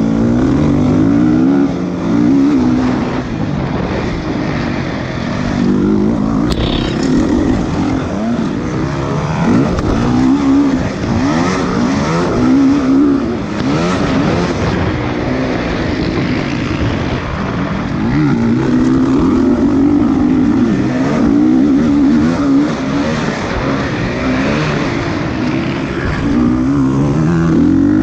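Motocross motorcycle engines running and revving, the pitch rising and falling again and again as the bikes accelerate and back off.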